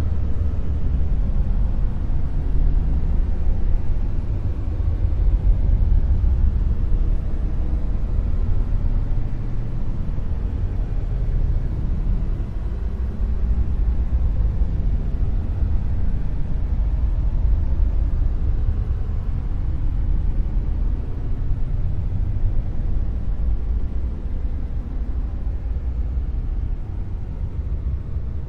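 Dark noise: a steady, deep rumbling hiss, strongest in the bass and dull above, with no breaks or events.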